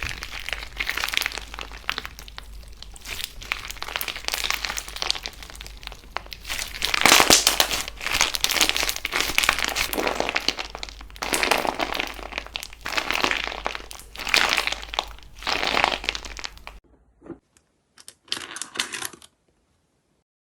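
Crunchy slime being squeezed and pressed, giving dense crackling in repeated swells. It stops abruptly about 17 seconds in, and a few short crackles follow before silence.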